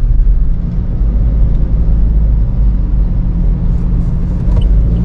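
Car running on the road, heard from inside: a steady low rumble of engine and tyre noise.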